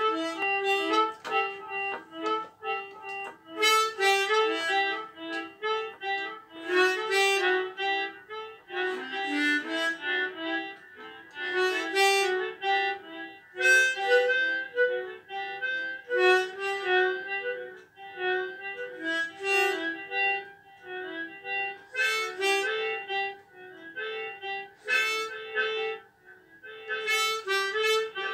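Solo harmonica playing a melody in short phrases of single notes, with brief pauses between phrases.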